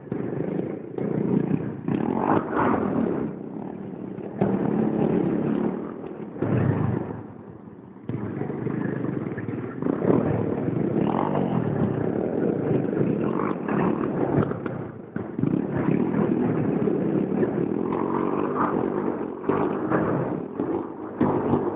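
Pit bike engine running and revving, its level rising and falling, with a brief drop about seven seconds in before it picks up again.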